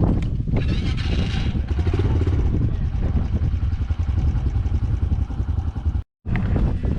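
Motorcycle engine running steadily, with a brief drop to silence about six seconds in.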